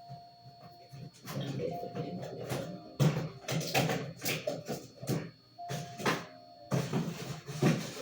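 Kitchen handling noises: irregular rustling, knocking and clattering of items being moved about while searching for food. A thin steady tone comes and goes three times, each lasting about a second.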